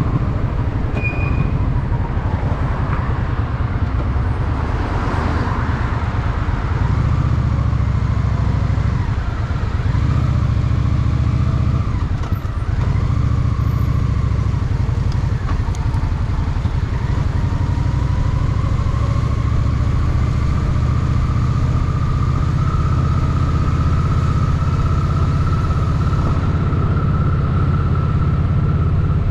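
Honda Shadow VT750's V-twin engine running as the motorcycle rides through city traffic, its low throb changing pitch with the throttle, with a brief dip in level about twelve seconds in.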